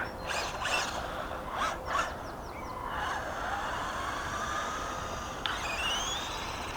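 Small brushed 370 electric motor of a 1/18 RC short course truck whining as it drives. Its pitch swells and falls, then climbs sharply near the end as the truck speeds up.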